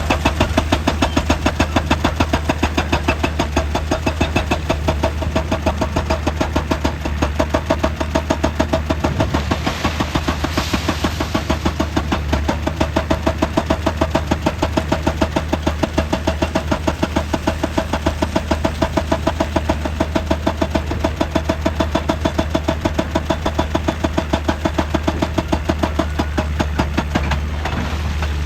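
Heavy machinery engine, likely an excavator's diesel, running steadily with a rapid, even pulsing of about five beats a second over a deep hum.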